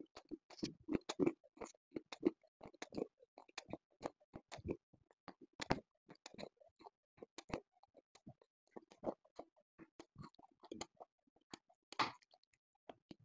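Close-miked crunching and chewing of a hard, brittle black item: irregular sharp crackles throughout, with a louder crunch near the end.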